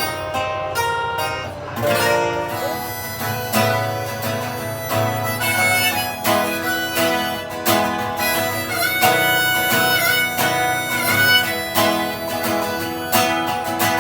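Instrumental passage of a folk song: a strummed acoustic guitar with a held, bending melody line over it, and no singing.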